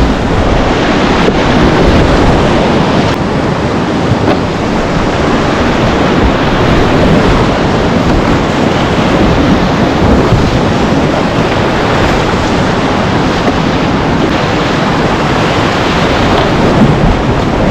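Whitewater of a river rushing, a loud, steady noise, with wind buffeting the microphone.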